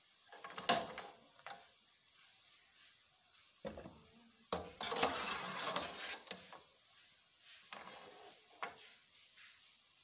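Small cubes of chin chin dough sizzling as they deep-fry in hot oil in a metal pot, while a metal slotted spatula scrapes and stirs through them. The stirring comes in short scrapes, loudest for a couple of seconds around the middle.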